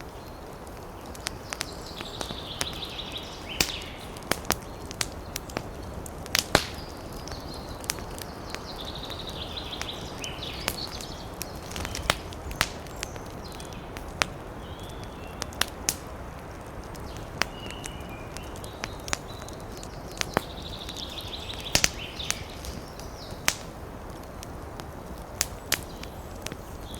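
Wood fire crackling: irregular sharp pops and snaps over a steady low hiss, with a few short high-pitched sounds every several seconds.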